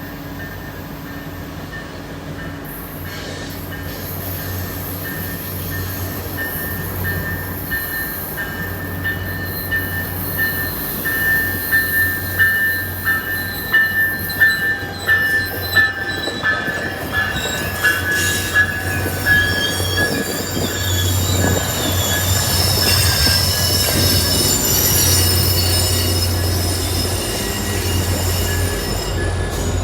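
Tri-Rail train rolling past with its wheels squealing, getting louder throughout. A steady high squeal in the first half gives way to irregular knocks around the middle and higher screeching squeals in the last third.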